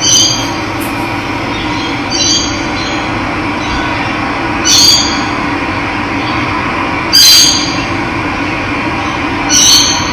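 Running water flowing steadily, with a bird giving a short, high call about every two and a half seconds, five times. The fourth call is the loudest.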